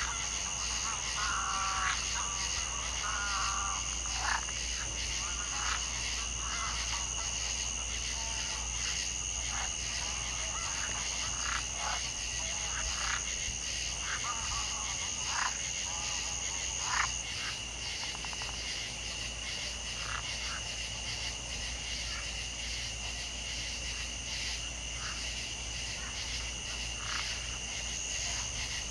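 Night chorus of frogs and insects: many short, irregular frog calls over two steady high insect trills. The frog calls thin out and the highest trill stops about two-thirds of the way in, leaving the lower trill going.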